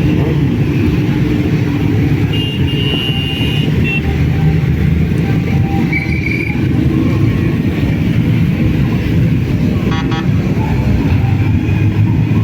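Steady, loud rumble of motor vehicles, with a horn sounding for about a second a little over two seconds in and a shorter toot around six seconds in.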